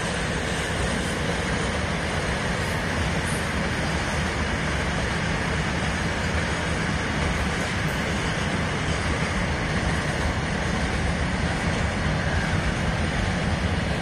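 Open-top coal wagons of a long Indian Railways freight train rolling past, a steady, unbroken noise of wheels on rails.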